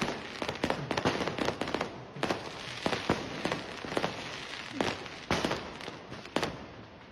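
Firecrackers and fireworks going off: a run of sharp, irregularly spaced bangs over continuous crackling.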